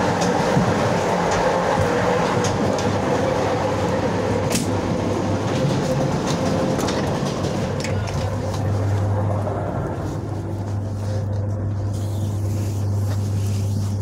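Regional passenger train running, heard from inside the carriage: a continuous rumble and rattle of the wheels on the track, with a few sharp clicks. About eight seconds in, a steady low hum comes up and the higher rattle eases a little.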